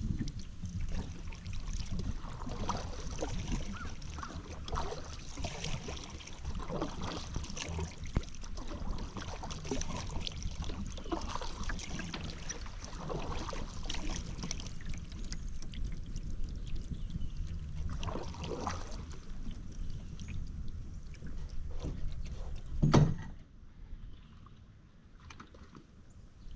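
Paddle strokes in river water, dipping and splashing about once a second with water running off the blade. A single sharp knock about 23 seconds in, after which the splashing stops and it is quieter.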